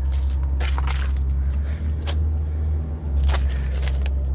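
Log truck's diesel engine idling with a steady low hum, with a few short scuffs or clicks over it.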